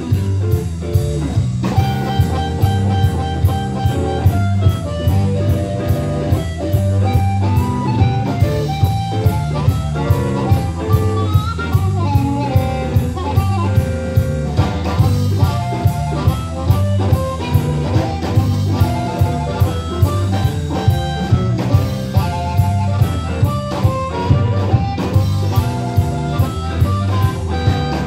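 Live band playing a blues-style song: guitar lines over a drum kit keeping a steady beat about twice a second, with a low line stepping beneath.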